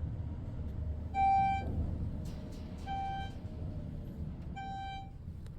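Elevator car descending with a low, steady hum, while its electronic chime sounds a short, pure beep three times about every 1.7 seconds, once for each floor it passes.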